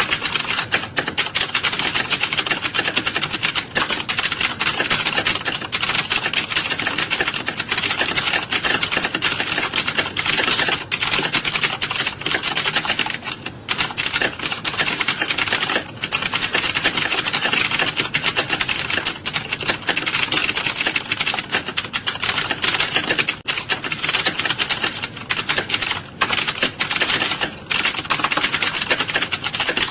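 A room full of keyboards being typed on at once, giving a dense, continuous clatter of keystrokes with only a few brief lulls.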